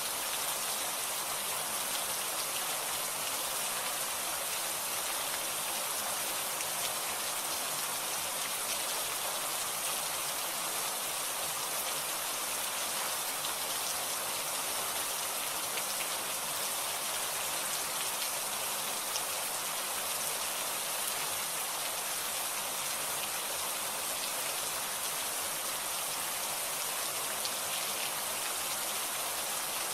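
Steady rain falling and pattering on a surface, a constant hiss with fine scattered drop ticks.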